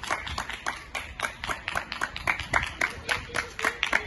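Hands clapping: several people applauding with sharp, uneven claps, about four or five a second.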